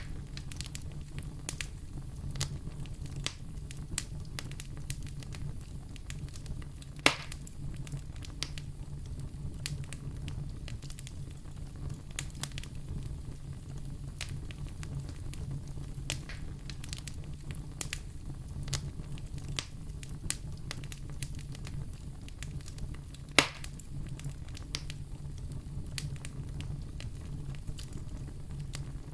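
Fire crackling in a fireplace: a steady low rumble under many small irregular snaps, with two louder pops, one about seven seconds in and one about twenty-three seconds in.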